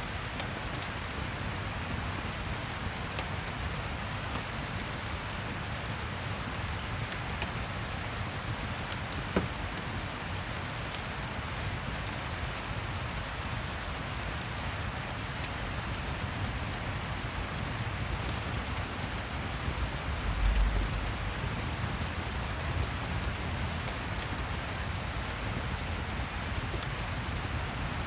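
Steady rain pattering, with faint, scattered crackles of a fireplace fire. A brief low thump comes about two-thirds of the way through.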